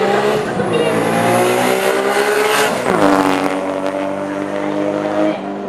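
Bee-R Skyline GT-R's 2.8-litre RB26DETT straight-six with a T51R turbo, revving up for about three seconds, then dropping sharply in pitch and holding steady at lower revs.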